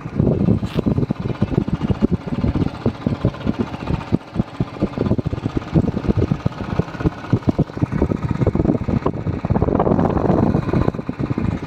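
Royal Enfield Bullet's single-cylinder engine running as the motorcycle is ridden, a rapid low pulsing, with some wind noise on the microphone.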